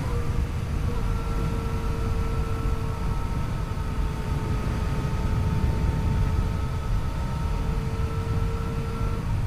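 Yamaha FJ-09's 847 cc inline-three engine running at a steady speed under way, with a low rumble and a steady, unchanging pitch, mixed with rushing wind noise from riding.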